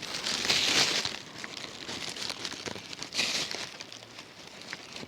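Close crinkling rustle with scattered light ticks while rain falls. The rustle is loudest in the first second and again about three seconds in.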